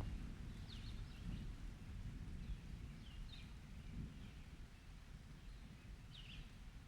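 The tail of a thunder rumble dies away at the start. Faint, short, high chirping squeaks come a few times over low outdoor noise.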